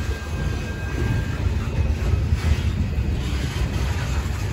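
Norfolk Southern open-top hopper cars of a freight train rolling past, a steady heavy rumble of steel wheels on rail.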